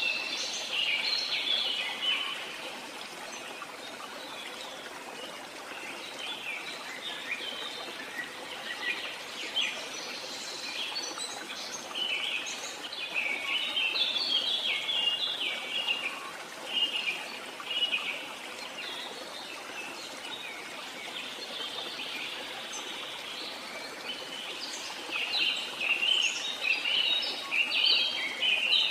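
Birds chirping in clusters of short calls over a steady background hiss, busiest at the start, through the middle and near the end.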